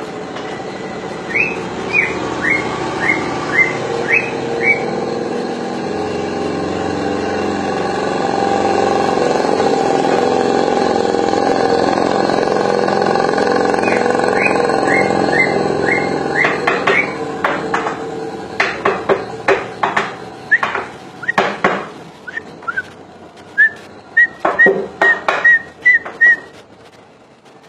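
A cucak ijo (green leafbird) singing in series of short, sharp whistled notes, several a second, with sharp clicking calls toward the end. A louder steady drone rises and fades through the middle.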